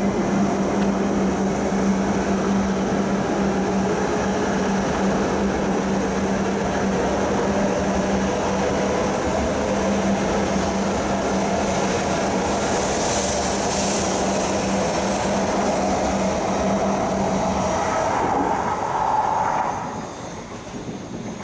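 E5-series Shinkansen train running past at low speed beside the platform: a steady, loud rumble of wheels on rail with a constant low hum through it, fading near the end as the last car pulls away.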